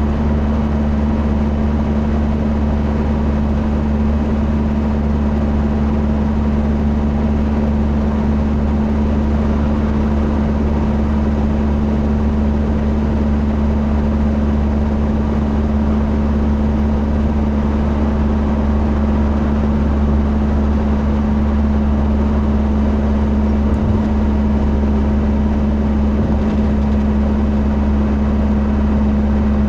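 Steady drone of a moving car heard from inside the cabin: engine and road noise with a constant low hum.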